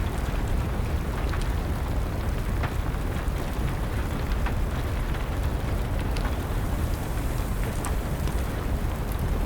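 Wood fire crackling with steady rain: a constant low rumbling hiss with scattered sharp pops throughout.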